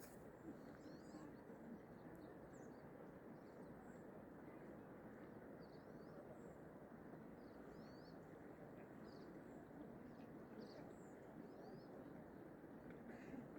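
Faint, scattered chirps of small songbirds over a steady low hiss of outdoor background noise.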